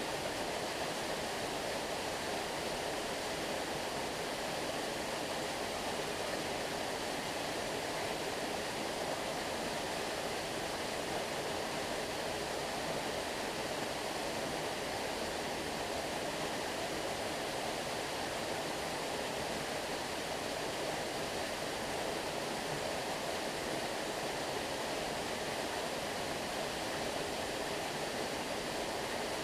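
Stream water flowing steadily, an even, unbroken wash of sound with no separate splashes.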